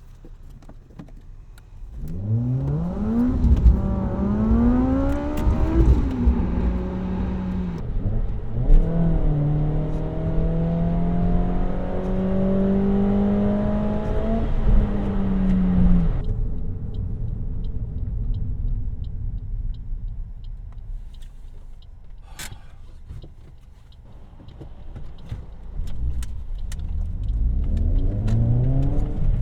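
Car exhaust and engine accelerating hard, the note rising through the revs with gear changes in between. It then eases off to a quieter cruise, with one sharp click, and starts rising again near the end.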